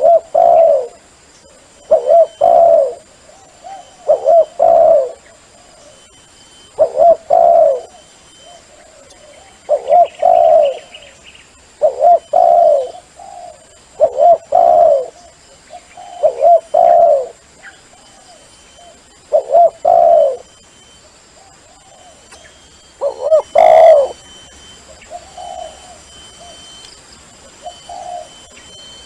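Spotted dove cooing over and over in low phrases of two or three notes, about one phrase every two seconds, with a short lull about two-thirds of the way through.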